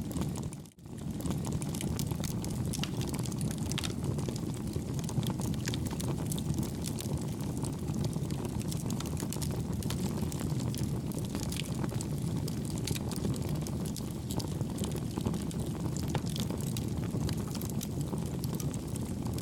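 Campfire burning with a steady low rumble and frequent small crackles and pops. The sound drops out briefly just under a second in.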